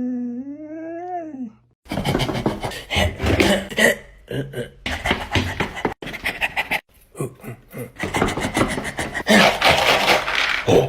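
A dog answers with a drawn-out, wavering howl-like 'talking' vocalisation that dips and rises in pitch and dies away under two seconds in. Fast, loud, breathy panting follows for the rest.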